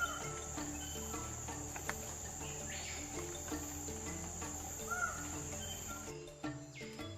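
Steady high-pitched insect drone of crickets or cicadas that cuts off about six seconds in, with a few short bird calls over it and soft background music underneath.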